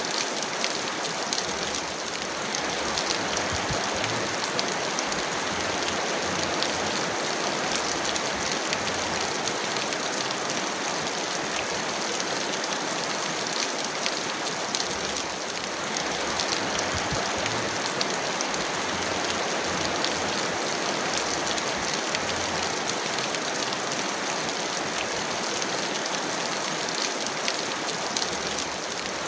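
Heavy rain falling steadily, a dense even patter of drops with no break.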